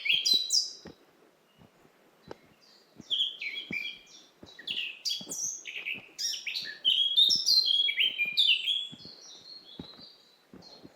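Several songbirds singing in rapid phrases of high chirping notes, with a lull about a second in and busy song again from about three seconds in until near the end. Soft footsteps on the path at a walking pace underneath.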